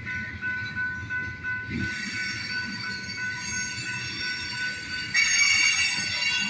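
A train rolling past, heard muffled through a closed car window: a low rumble with steady high whining tones, which grow louder about five seconds in.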